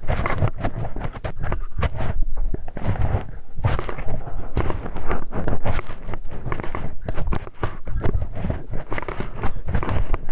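Close-miked ear-cleaning ASMR sounds: a tool rapidly scratching, rubbing and clicking against the microphone's ear in a dense, irregular stream.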